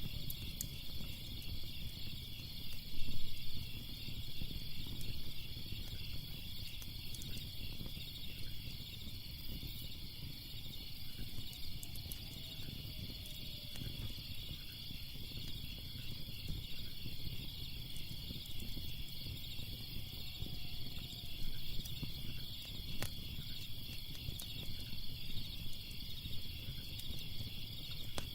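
Fire crackling, with scattered small pops and one louder pop about three seconds in, over a low steady rumble. A steady, high-pitched, pulsing insect chorus runs underneath.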